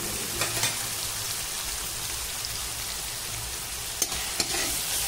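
Chopped onion and tomato sizzling in oil in a kadhai: a steady frying hiss, with a few faint clicks about half a second in and again around four seconds in.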